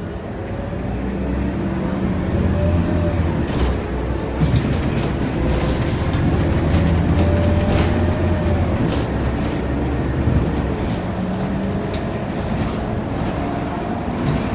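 Scania K230UB bus's five-cylinder diesel engine pulling under way, heard from inside the cabin. It gets louder over the first couple of seconds as the bus accelerates, with a drivetrain whine that rises and falls in pitch and scattered rattles from the bus body.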